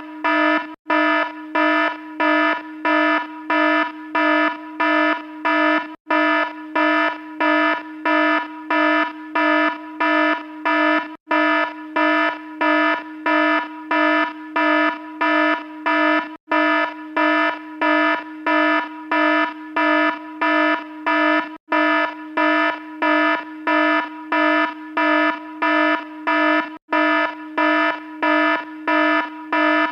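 Electronic alarm sounding a buzzy tone in rapid, evenly spaced beeps, a little under two a second, broken by a split-second gap about every five seconds where the sound repeats.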